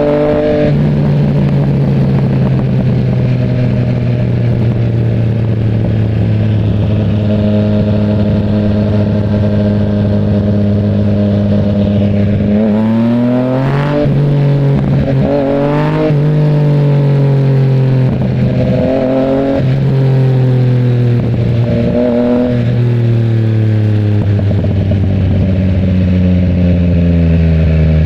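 Yamaha MT-09's three-cylinder engine running at a steady pace. From about halfway through it rises and falls in pitch several times as the throttle is opened and closed.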